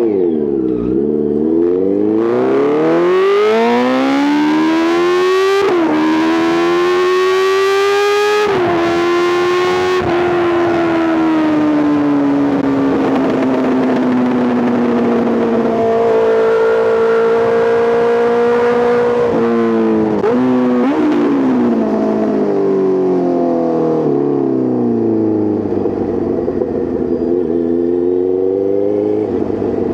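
Honda CBR650R inline-four through an Arrow Pro Race titanium full exhaust, heard while riding. The revs climb through two gear changes early on, then hold and slowly sink while cruising. A couple of quick blips come about twenty seconds in, and the revs climb again near the end.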